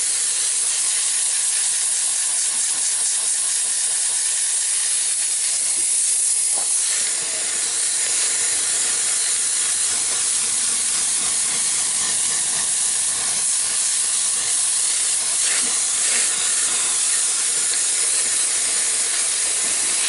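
Compressed-air blow gun hissing steadily as it blows dust out of a clogged truck air filter element, with small changes in strength as the nozzle moves over the filter.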